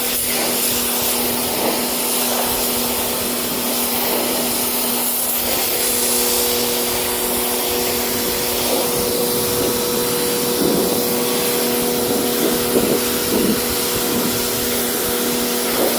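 Wet/dry shop vacuum running steadily with a constant motor hum and airy hiss, sucking water out of a soaked car seat, with occasional short gurgles as it pulls up water.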